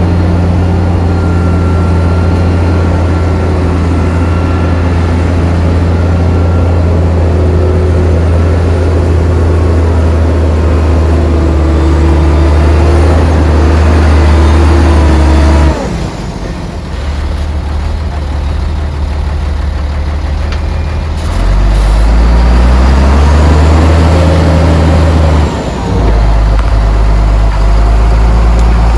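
Heavy diesel engine of earthmoving machinery working under load, a deep steady drone. About halfway through it drops off sharply, climbs back up a few seconds later, and dips briefly once more near the end.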